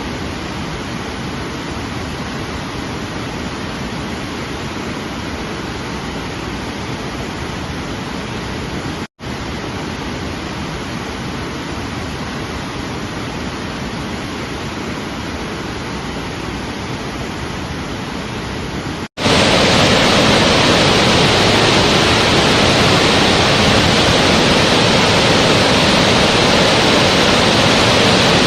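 Steady rushing of water, heard as three spliced stretches with a brief dropout between each, about nine and nineteen seconds in; the last stretch is louder and brighter.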